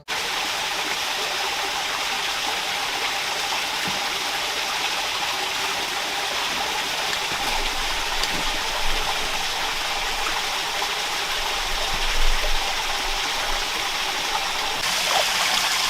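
Rocky rainforest stream running over rocks: a steady, even rush of water.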